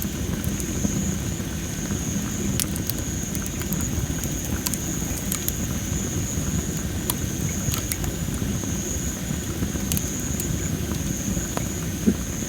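Campfire of dry masaki (Japanese spindle) firewood crackling, with scattered sharp pops over a steady low rumble. One louder pop comes near the end.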